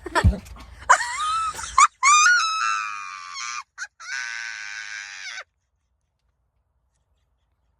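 A short thump, then high-pitched shrieks: three drawn-out squealing cries, the first rising in pitch. The sound cuts out abruptly about two-thirds of the way in.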